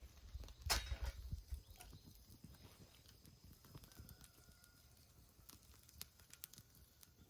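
Wood fire crackling in a fire pit: scattered, irregular sharp pops, the loudest about a second in.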